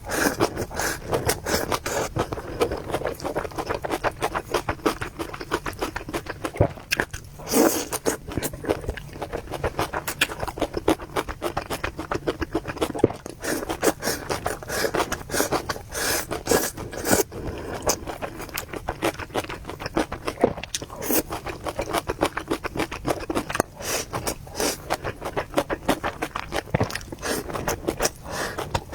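Close-miked eating of noodles: a steady, dense run of small wet clicks, crunches and scraping.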